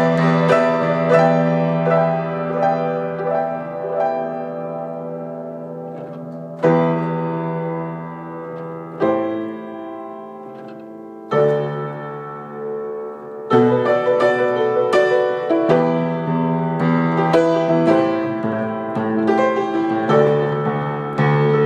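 Instrumental break of an acoustic song on piano: chords struck and left to ring and fade, with new chords coming in about seven, eleven and thirteen seconds in, then busier playing to the end.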